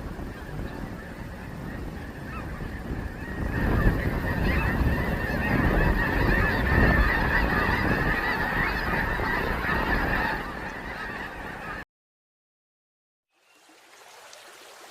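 A huge flock of snow geese calling together in a dense, continuous chorus of honks. It grows louder about four seconds in, then cuts off abruptly near the end, leaving silence and then a faint hiss.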